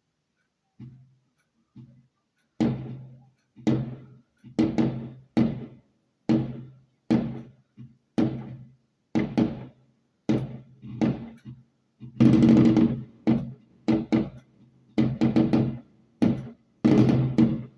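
A run of firework bangs, each a sharp crack with a short ringing decay. They come faster as it goes on, bunching into dense volleys about twelve seconds in and again near the end.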